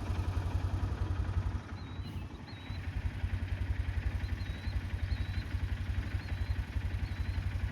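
An engine idling steadily with a fast, even low pulse, dropping off briefly about two seconds in and then coming back.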